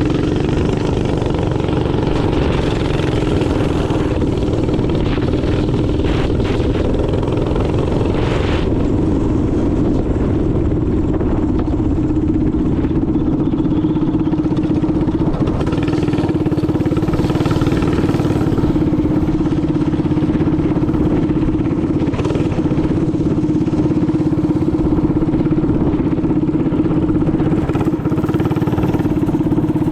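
Minibike engine running steadily while riding, a constant drone that holds at much the same speed throughout.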